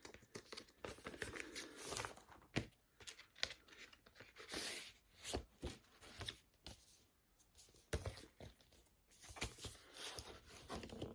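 Faint, scattered rustling, crinkling and light scraping of a vinyl LP's sleeve and packaging being handled.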